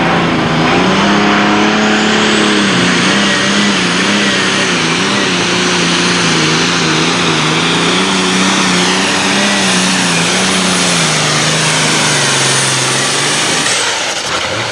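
Super stock pulling tractor's turbocharged engine at full throttle during a pull, its note wavering up and down as the wheels spin and bite, with a high turbo whistle over it. Near the end the engine note drops and the whistle dies away as the throttle comes off.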